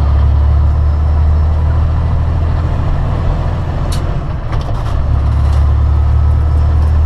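Steady low drone of a semi-truck's engine and road noise inside the cab while driving, with a brief click about four seconds in.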